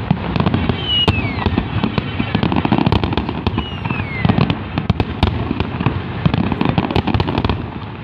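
Large aerial fireworks display going off without a break: a dense run of bangs, pops and crackles over a steady rumble, with two falling whistles, about one and about four seconds in.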